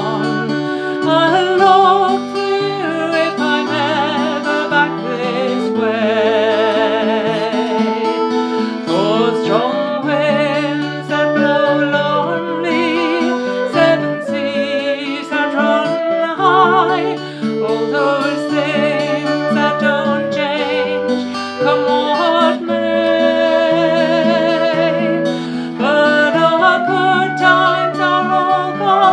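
Acoustic folk music: plucked guitar accompaniment under a wavering melody line of flute and singing voice.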